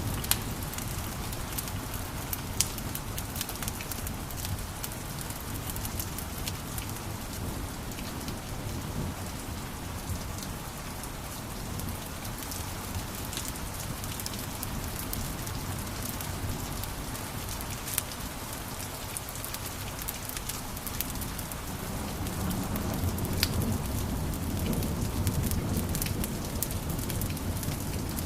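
Wood fire crackling in a fireplace: a steady hiss and low rumble of flames with scattered sharp pops and snaps. The low rumble grows louder about three-quarters of the way through.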